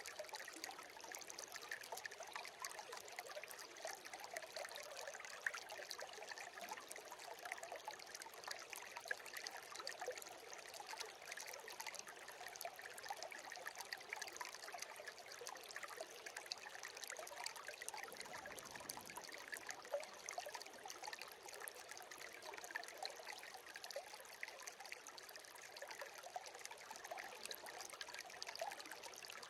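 A stream of water trickling and babbling steadily, with many small splashes and no break.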